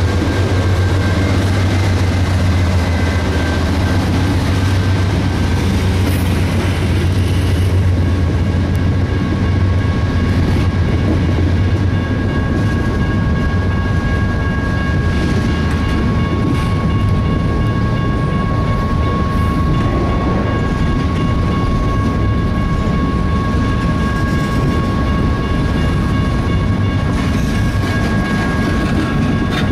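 Intermodal freight cars of a CSX train rolling past with a steady rumble and clatter of wheels over the rail joints. A low hum fades about twelve seconds in, and a thin, steady squeal from the wheels runs under the noise.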